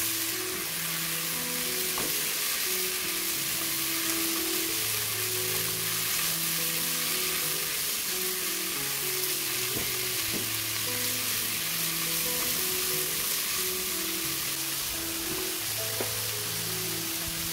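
Sliced vegetables and konjac sizzling steadily in hot oil in a nonstick pan while a spatula stirs them, with a few light taps of the spatula on the pan. Soft piano music plays underneath.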